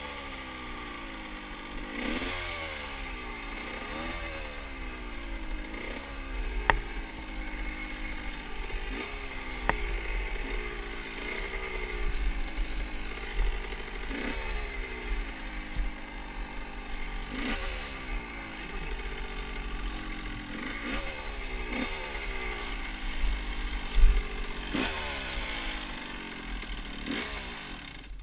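Motorcycle engine under way, the throttle opened and closed again and again: each rev climbs quickly and then falls away, roughly every two seconds. A couple of sharp clicks are heard along the way.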